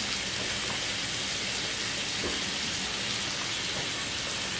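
Chopped onion and red pepper frying in butter in a stainless steel sauté pan, a steady sizzling hiss.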